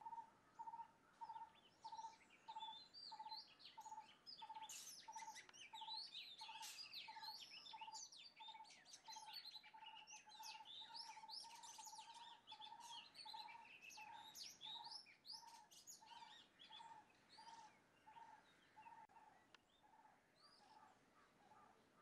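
Birds calling: one low note repeated evenly, about one and a half times a second, with dense high-pitched chirping and twittering from several birds over it, busiest in the middle and thinning out towards the end.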